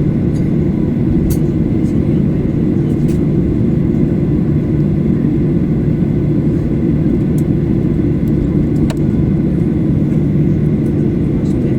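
Steady low rumble inside the cabin of a Boeing 737-800 on the ground after landing, with a few faint clicks about a second, three seconds and nine seconds in.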